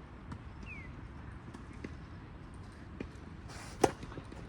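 A tennis ball struck once by a racket, a sharp pop with a brief ring near the end, just after a short swish of the swing. Light taps and scuffs of feet on the court before it.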